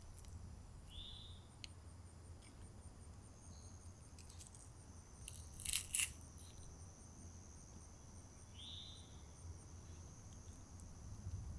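Crickets and other insects calling: a steady high buzz and an even run of high chirps at about three a second, with two short lower calls, one about a second in and one near the end. A sharp double click comes about six seconds in.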